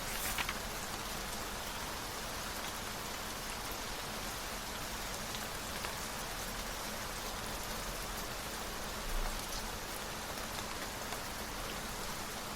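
Steady rain, an even hiss of drops, with a brief sharper crackle just after the start and a short low bump about three-quarters of the way through.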